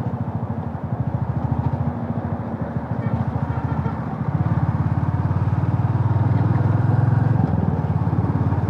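Motorcycle engine running on the move, with rapid even firing pulses; it gets louder about four seconds in.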